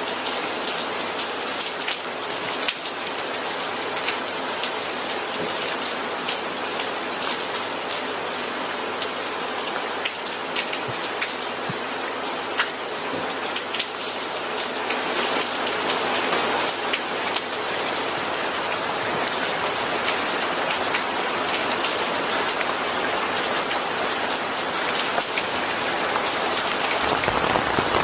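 Steady rain falling, a dense hiss with many individual drops pattering on a surface, growing slightly heavier about halfway through.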